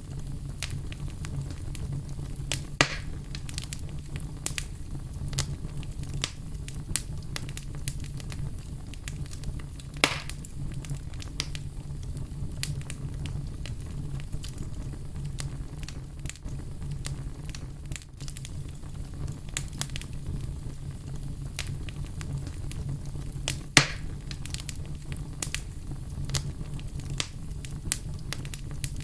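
Fire crackling, with a constant scatter of small clicks over a steady low rumble of flame, and three louder pops: near 3 s, about 10 s, and near 24 s.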